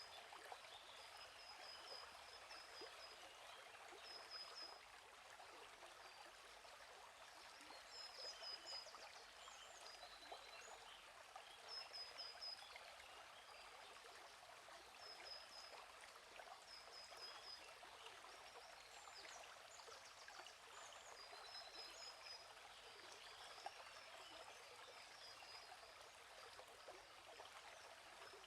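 Quiet, steady rush of a gently flowing stream, with a small bird repeating a short, high chirping phrase every few seconds.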